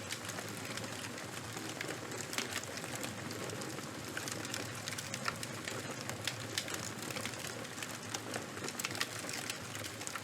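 Charcoal and wood fire burning, with a steady hiss and irregular small crackles and pops throughout.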